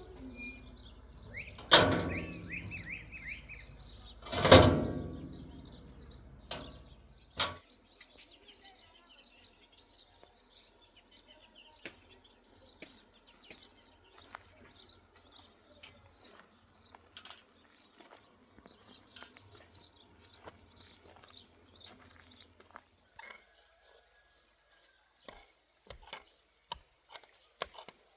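Two loud knocks with a short ring, the first about two seconds in and the next a few seconds later. Then small birds chirp in quick short notes for a long stretch, and sharp clicks come near the end.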